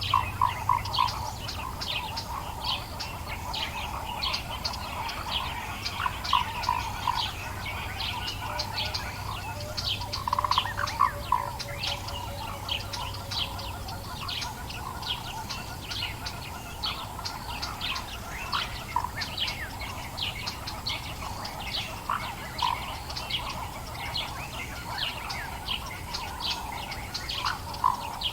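Morning dawn chorus of many birds in the African bush: a dense, unbroken stream of quick high chirps, with bursts of lower repeated notes from other birds now and then. A faint low steady hum sits under it for roughly the first half.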